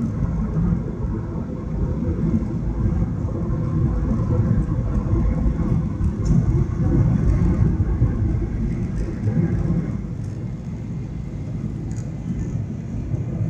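Steady low rumble of an airliner heard from inside the passenger cabin: engine and airflow noise, swelling slightly in the middle and easing off near the end.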